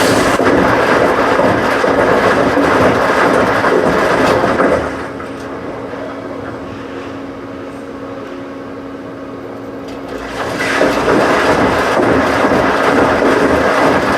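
Washing machine running with a loud, steady rushing noise that drops away about five seconds in to a low, even hum, then comes back about five seconds later.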